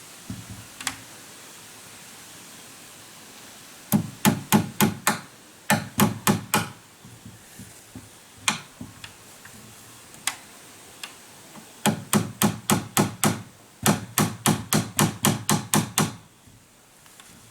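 Hammer blows on wood in quick runs of strikes, about three to four a second, with short pauses and a few single blows between runs.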